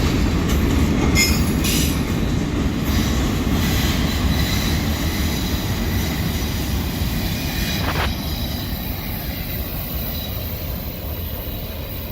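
Freight train's cars rolling past with a low, steady rumble. Brief high wheel squeals sound in the first two seconds and a single clank about eight seconds in, and the rumble slowly fades.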